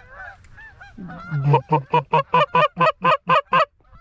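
Goose call blown in a fast, even run of about a dozen clucks, about five a second, starting about a second in, worked at an approaching flock. Faint honking of distant geese underneath.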